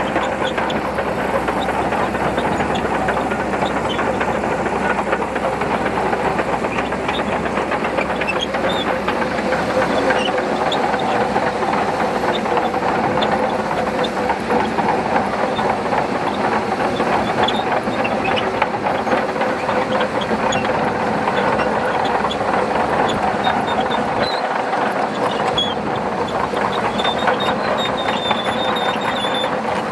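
Shantui crawler bulldozer working, its diesel engine running steadily while the steel tracks keep up a dense clattering rattle, with a brief squeal near the end.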